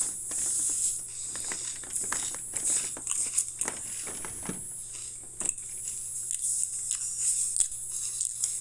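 Pringles potato crisps being crunched and chewed, a string of irregular crackling bites over a steady high hiss.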